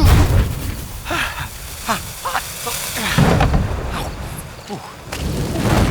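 Deep booms, like explosion sound effects: one at the start, another about three seconds in and a third near the end.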